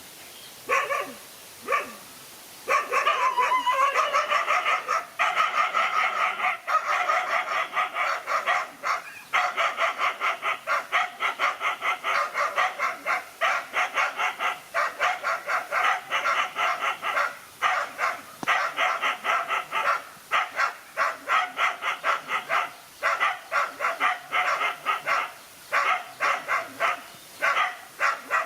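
Dogs barking hard and fast. A few separate barks come first, then a nearly unbroken run of barks, two or three a second, as dogs face off in a fight.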